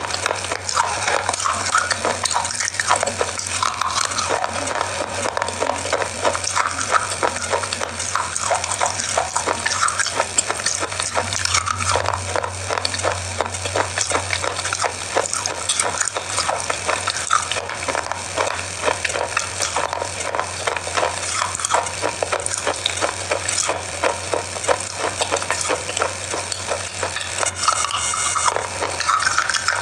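Close-miked biting and crunching of a hard, grooved chocolate bar: a dense, continuous stream of crisp crackles and snaps.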